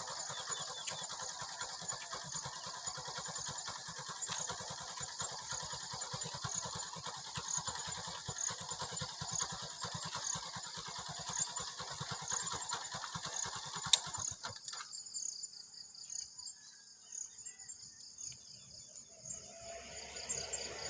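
Insects, crickets or cicadas, chirping steadily in a high, evenly pulsing drone. Under them for the first fourteen seconds or so runs a rough, crackly noise that stops abruptly after a click, leaving only the insects.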